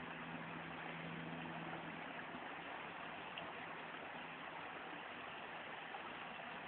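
Vehicle engine idling with a steady low hum that weakens about two and a half seconds in, over a faint even hiss.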